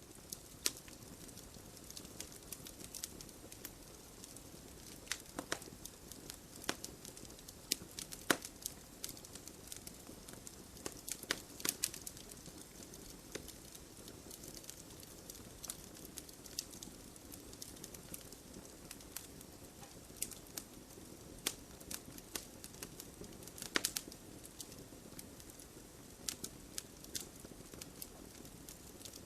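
Wood fire burning in a fireplace: logs crackling and popping at irregular intervals over a steady low rush of flame, with a few louder pops.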